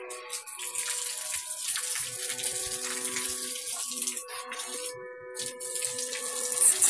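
Water running and splashing from a small homemade battery-powered water pump, under background music with held notes.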